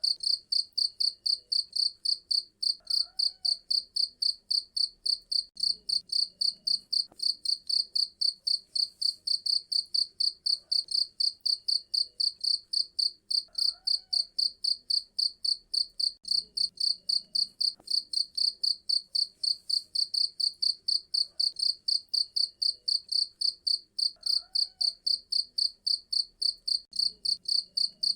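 Cricket chirping in a steady, even rhythm of about three to four shrill chirps a second.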